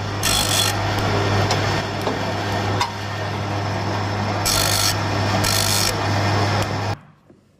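A tool rasping and scraping against wood over a steady motor hum, with several louder half-second bursts of scraping; it stops abruptly near the end.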